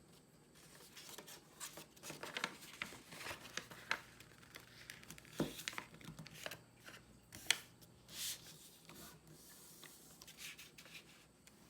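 A square sheet of paper being folded and creased by hand, with soft rustling and crisp, irregular crackles and snaps as the folds are pressed flat.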